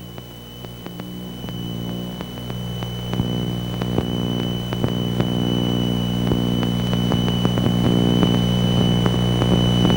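Piper Seneca's twin piston engines and propellers droning steadily in the cockpit in cruise in the traffic pattern, growing gradually louder, with a thin steady high-pitched whine and faint clicks alongside.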